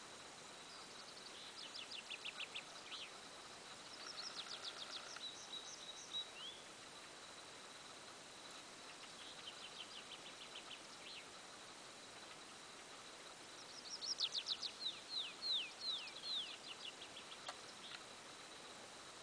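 A songbird singing four short phrases of quick, falling notes, the loudest and longest about fourteen seconds in. A faint steady high tone and hiss run underneath.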